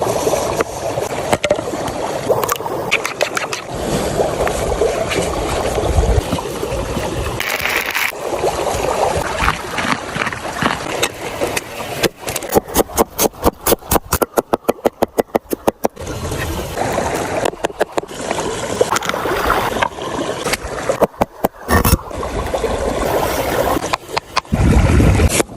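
Food-preparation sounds in a run of short edited cuts: scraping and handling noises, with a stretch in the middle of quick, evenly spaced sharp knocks, about six a second.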